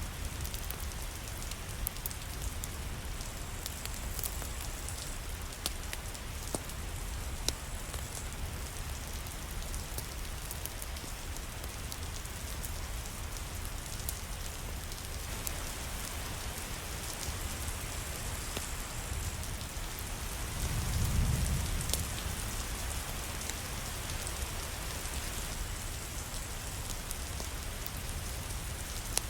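Steady rain falling, a continuous even hiss with scattered sharp clicks. About two-thirds of the way through, a low rumble swells up and fades away.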